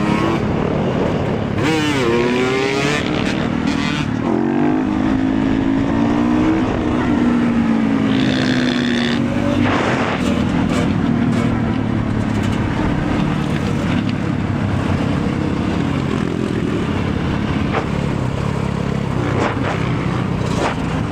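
Motorcycle engine running under way with heavy road and wind noise, the engine pitch rising and falling a few times in the first seven seconds.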